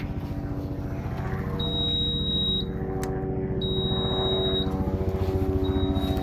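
Engine running steadily, with an electronic warning beeper joining in a couple of seconds in, giving high, steady beeps about a second long every two seconds or so.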